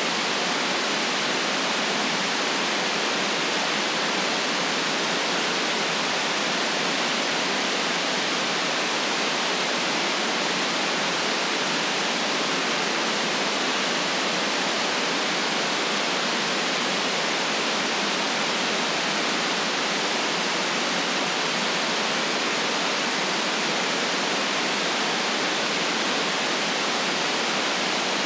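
Steady electronic white noise for relaxation: an even, unchanging hiss with little deep bass.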